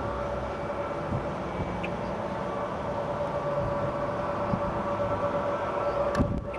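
Jet aircraft engines running with a steady whine, under low wind rumble buffeting the microphone.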